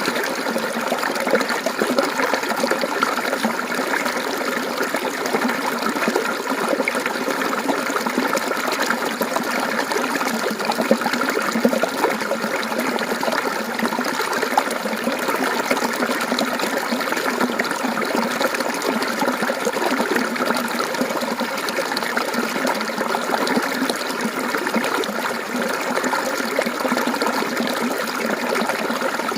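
Mountain stream water flowing and trickling over rocks in a steady, continuous babble.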